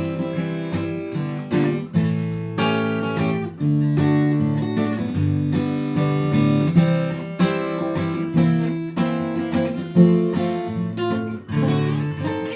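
Acoustic guitar played solo in a blues style, an instrumental break of picked and strummed notes with a steady rhythm.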